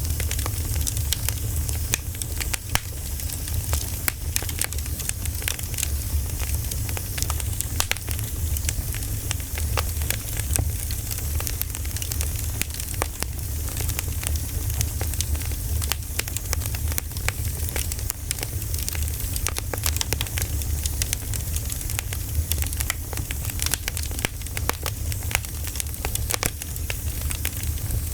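Campfire crackling, with many sharp pops and snaps over a steady low rumble and hiss.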